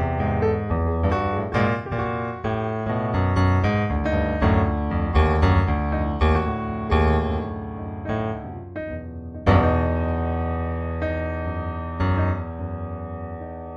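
Background music played on piano: a run of notes, then a struck chord about 9.5 seconds in that rings and fades.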